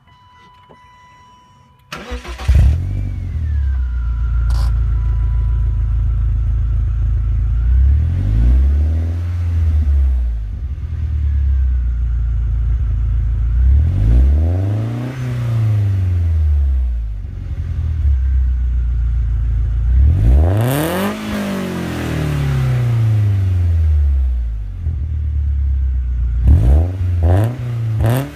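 BMW 318ti's four-cylinder engine running through an Eisenmann sport muffler, heard from the exhaust: it is started warm about two seconds in and settles to idle. It is then revved three times, each rise higher than the last, the third toward redline, with a few quick blips near the end.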